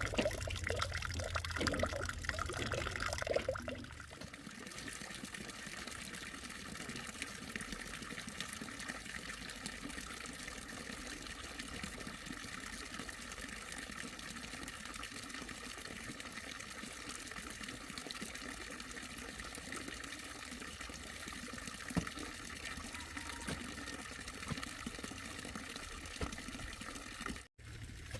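Water pouring for about the first four seconds, then a softer, steady sound of running or trickling water.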